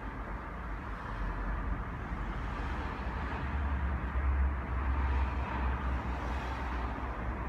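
LG Multi V mini air-conditioning outdoor unit running: a steady rush of noise with a deep rumble that swells for a few seconds in the middle.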